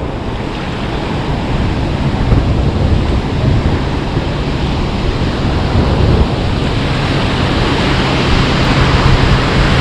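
Surf washing on the beach with wind buffeting the microphone: a steady loud rush with heavy low rumble that grows slowly louder.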